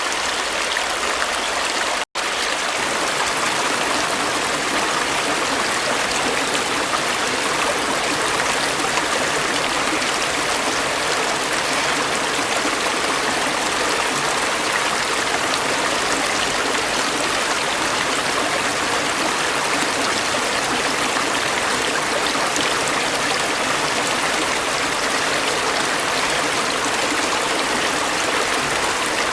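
Stream water flowing and splashing in a steady, even rush, with a momentary cut to silence about two seconds in.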